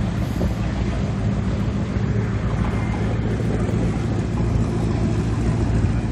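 A motor running steadily with a low, even hum, likely a boat or tow vehicle at the ramp.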